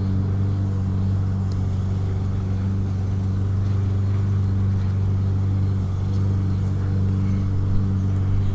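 Steady low machine hum, unchanging, with a faint click or two.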